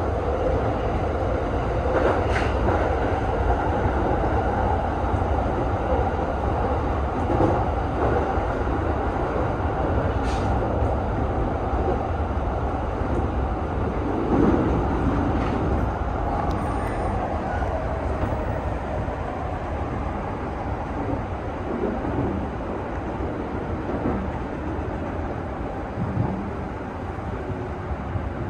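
E217 series electric train running, heard from inside the driver's cab: steady running noise of wheels on rail with a few sharp clicks, easing slightly as the train runs into a station.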